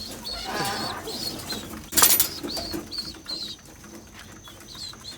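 Pigeons flapping and shuffling in a loft, with one sharp knock about two seconds in and short high chirps repeating throughout.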